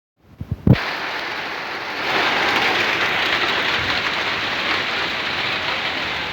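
Steady rain falling, an even hiss that grows heavier about two seconds in, after a few low thumps in the first second.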